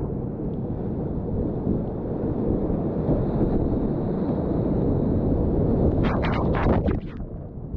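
Whitewater rapids rushing, heard as a dense low rumble while a kayak runs the river, with a quick flurry of sharp splashes about six seconds in before the rush eases briefly near the end.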